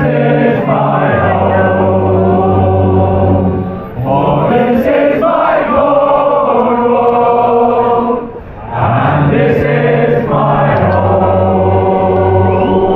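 A group of men singing a sea shanty together in long held phrases, with short breaks about four and eight and a half seconds in.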